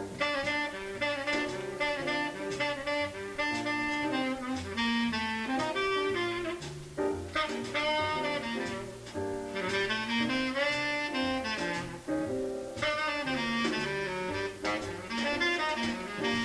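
Small-group jazz: a tenor saxophone plays quick runs of notes in phrases with short breaks, over a walking double bass.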